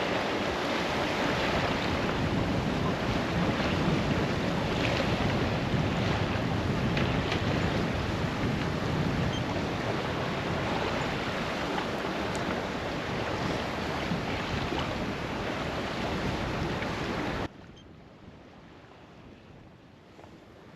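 Wind and water rushing past a sailboat under sail, with wind buffeting the microphone; no engine is heard. The sound cuts off suddenly near the end to a much quieter background.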